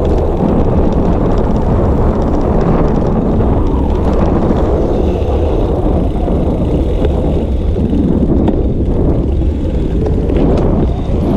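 Wind buffeting an action camera's microphone while cycling: a loud, steady rushing noise.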